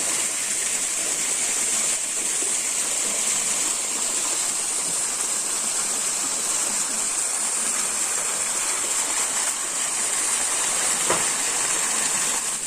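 Steady rushing noise of flowing water from a forest stream, with an even high hiss.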